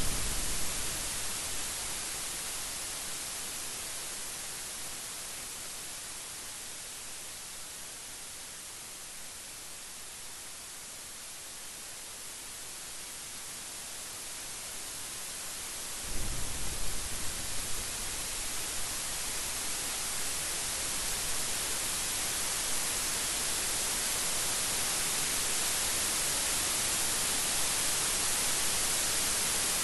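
Steady rain hissing, slowly fading and swelling again. About halfway a thunderclap breaks in suddenly with a few sharp cracks and rolls on as a low rumble under the rain.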